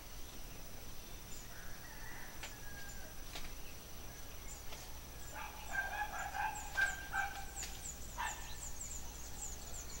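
A bird calling in a rapid run of notes about five to seven seconds in, over a steady high-pitched whine and faint short high chirps that come faster near the end.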